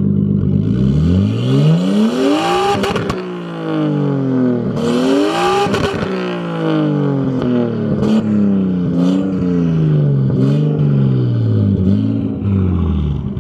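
Nissan Skyline R32 GTS-T's turbocharged inline-six revved from idle at the exhaust: two long revs up and back down, then a string of shorter throttle blips, with a lot of popping from the exhaust as the revs fall. No flames come out.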